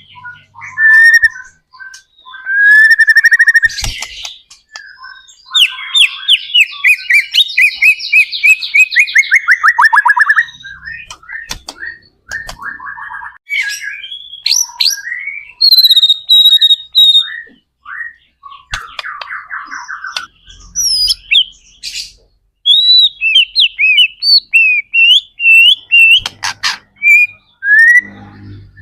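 White-rumped shama (murai batu) singing loudly and continuously: varied whistled phrases, rapid trills, sharp clicks and rising and falling sweeps, broken by short pauses.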